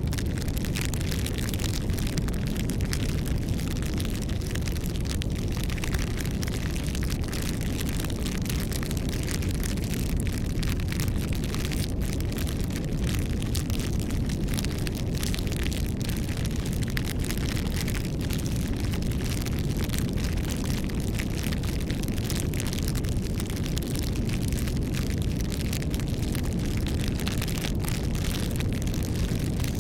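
Wood campfire burning: a steady low rumble of flames with many small crackles and pops.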